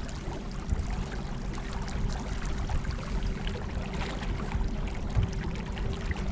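Water lapping and splashing against a small craft on the river, over a steady low hum with a thin constant whine.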